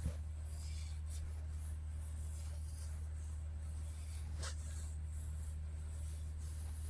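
A grooming brush stroking through a cat's fur, making soft, scratchy rubbing, with one sharper scratch about four and a half seconds in. A steady low hum runs underneath.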